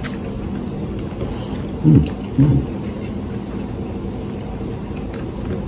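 Close-up eating sounds: chewing with small wet mouth clicks and smacks from corn on the cob and barbecued ribs, over a steady background hum. Two short hummed vocal sounds come about two seconds in, like an 'mm-hmm'.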